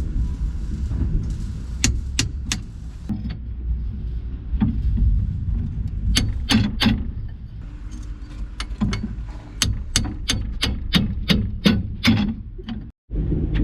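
Sharp metallic clicks and clinks of hand tools working on metal, scattered at first and then in quick runs through the second half, over a steady low rumble. The sound cuts out briefly near the end.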